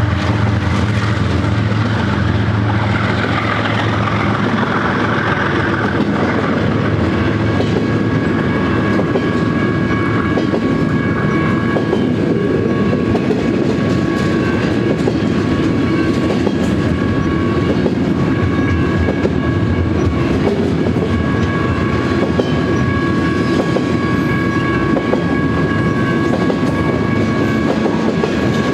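BNSF double-stack container train rolling through a grade crossing: a steady rumble and rattle of the well cars, with the diesel drone of the GE locomotives that have just passed fading over the first few seconds. Steady high ringing tones sound over it, from the active crossing signal.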